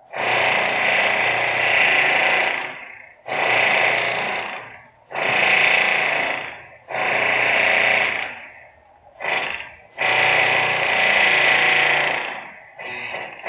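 Loud industrial machinery noise in repeated bursts, about seven in all, mostly one and a half to two and a half seconds long with two short ones, each starting abruptly and fading away, separated by brief gaps.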